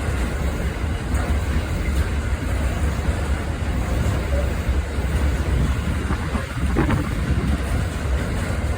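Steady low rumble of an approaching train mixed with wind buffeting the microphone, with one brief click about seven seconds in.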